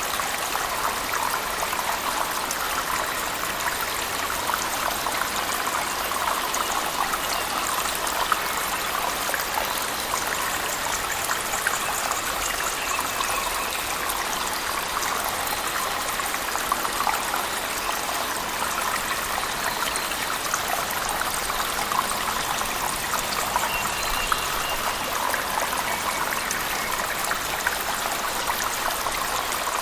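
A cave waterfall and heavy rain: a steady, even rush of falling and splashing water, with small drips and splashes ticking through it.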